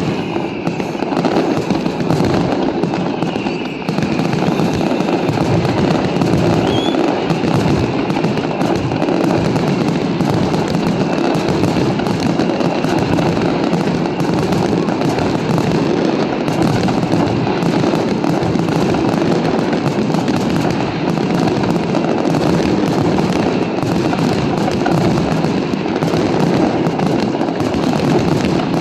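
Fireworks display: a dense, unbroken barrage of bangs and crackle, with a few faint whistles during the first seconds.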